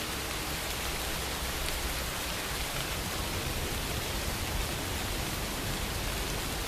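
Steady rain ambience: an even hiss of rainfall from a Rainy Mood rain recording. The last notes of music fade out at the very start.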